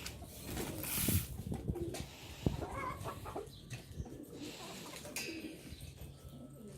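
Domestic pigeons cooing, with chickens clucking, and a brief rustle about a second in.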